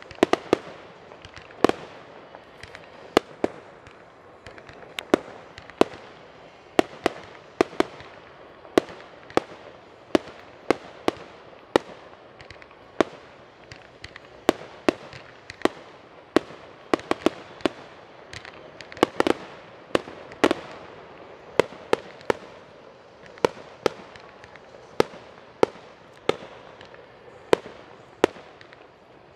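Aerial fireworks bursting in a steady, irregular run of sharp bangs, about one to two a second, with a lower steady noise between the reports.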